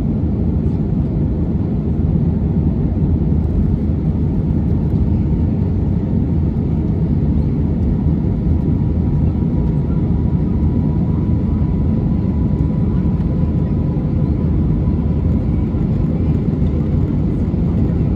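Steady low rumble of a jet airliner's engines and rushing air heard inside the cabin during takeoff, with a faint steady whine joining about halfway through.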